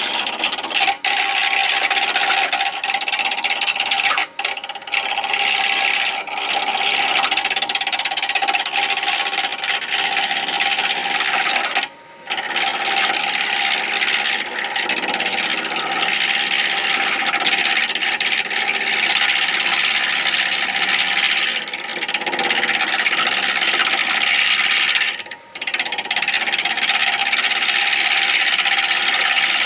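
Lathe turning tool cutting an acrylic pen blank spinning on a midi lathe: a continuous loud scraping hiss over a steady whine, stopping briefly twice, about 12 seconds and 25 seconds in, as the tool is lifted off.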